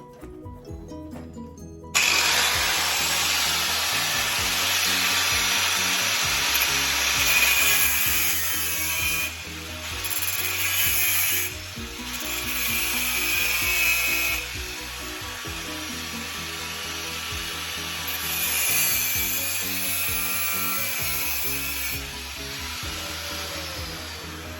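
Power tool running on the car body's sheet metal over background music with a steady bass line. The tool starts about two seconds in and briefly stops twice.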